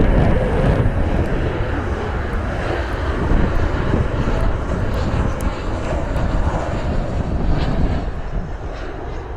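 Boeing 737 jet engines rumbling as the airliner comes in to land, loudest at first and fading gradually.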